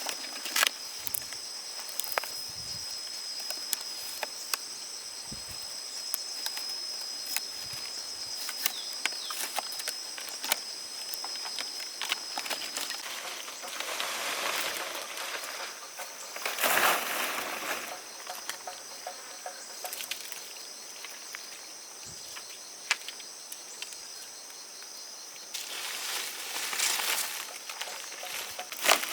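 Insects buzzing in a steady, high, thin tone that stops a little before halfway through, with scattered sharp clicks and several short bursts of rustling.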